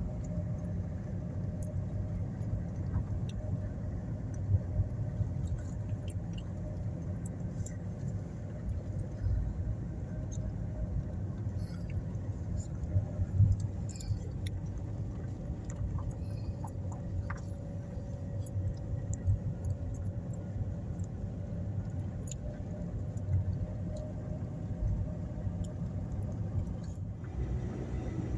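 A steady, uneven low rumble with scattered faint clicks, and a faint steady hum underneath.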